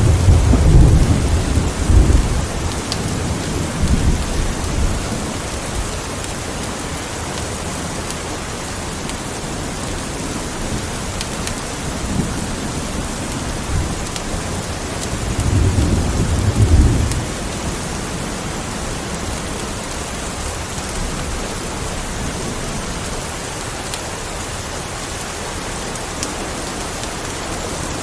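Steady rain falling, with low thunder rumbling over the first few seconds and again about two-thirds of the way through.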